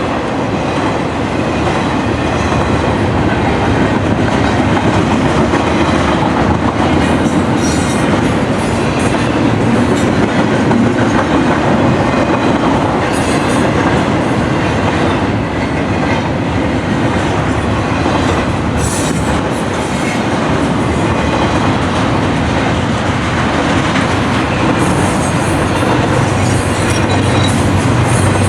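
Railroad cars rolling steadily past at a grade crossing, wheels clacking over the rail joints with a continuous rumble. A deeper hum builds near the end.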